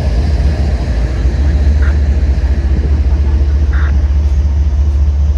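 Freight train rolling past with a steady, loud low rumble, with a few brief higher squeaks about two and four seconds in.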